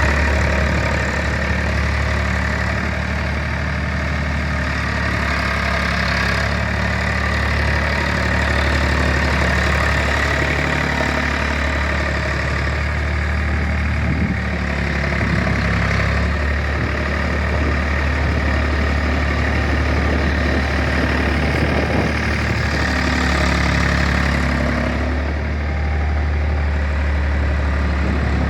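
Ford 4630 tractor's three-cylinder diesel engine idling steadily.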